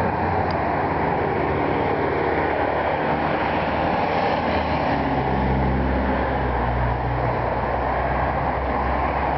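A vehicle engine running steadily: a continuous low drone with a hum that grows heavier about halfway through.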